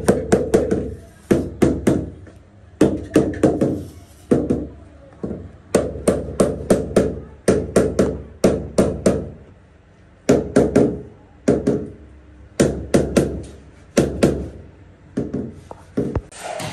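Hammer blows struck in quick bursts of several at a time, with short pauses between bursts; each blow is a sharp knock with a brief ring.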